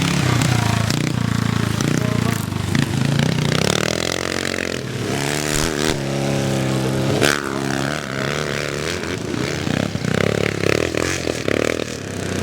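Vintage motocross motorcycle engines revving hard, pitch climbing and dropping repeatedly as bikes accelerate and shift, with a sharp crack about seven seconds in.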